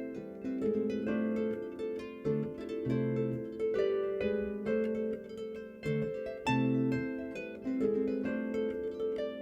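Harp playing an instrumental passage: plucked notes that ring and fade over recurring bass notes, with no singing.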